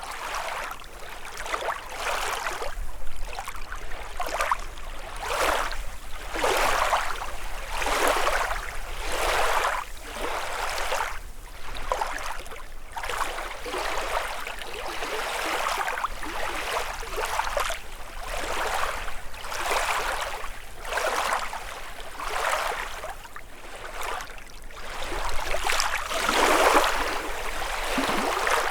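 Small lake waves lapping and splashing on the shore in a quick, uneven series, about one wash a second, with a louder run of splashes near the end.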